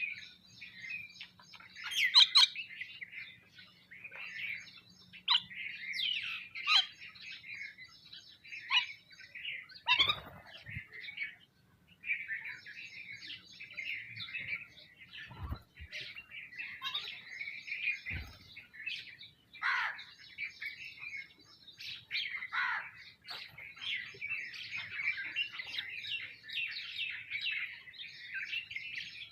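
A feeding flock of sparrows and mynas chirping and calling over one another without a break, with a few dull thumps in the middle.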